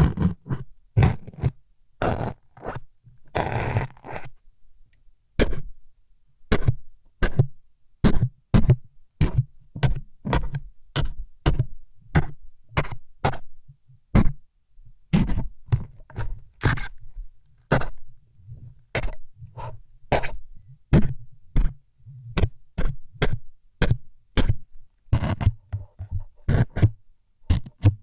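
A long series of close-miked ASMR stabbing strokes, played as needles jabbing into the ear and head: short, sharp scraping jabs with a dull thud under many of them, about one or two a second, with a few longer scrapes early on.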